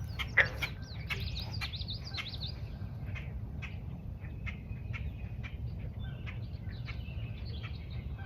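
Several wild birds chirping and calling, with a rapid warbling run of high notes in the first two and a half seconds and scattered short chirps after. A single sharp click comes about half a second in, over a steady low rumble.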